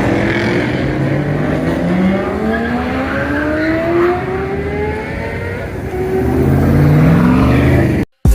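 Car engine accelerating hard, its pitch climbing and then dropping back several times as it shifts up through the gears.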